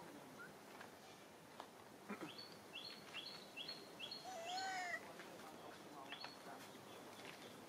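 Faint bird calls: a quick run of about six short, rising chirps, around three a second, then a louder, drawn-out arching call just before the middle, and a few more chirps later. Faint clicks and rustles sound in between.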